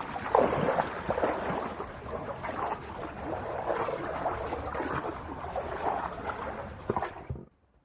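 Water sloshing and splashing around a person's legs as he wades into a deep pool, with irregular small splashes; it stops abruptly near the end.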